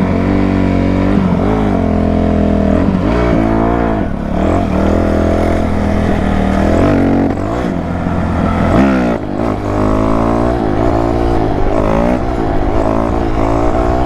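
Dirt bike engines revving up and down over and over, the pitch rising and falling every second or two over a steadier engine drone underneath, as the throttle is worked against the back brake for wheelies.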